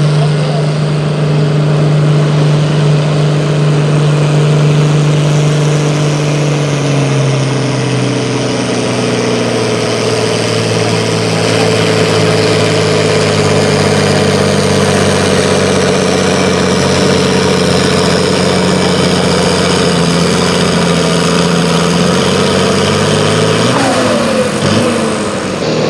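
A pulling vehicle's engine, from a tractor or truck pull, running hard under load. Its pitch drops around eight seconds in and again near the end.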